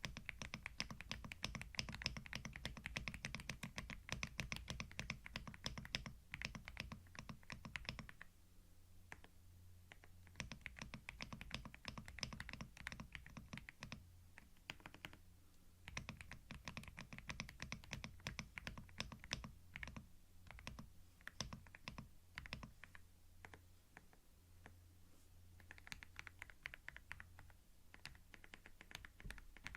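Typing on a computer keyboard, close-miked binaurally: fast runs of key clicks broken by pauses of a second or two, over a faint steady low hum.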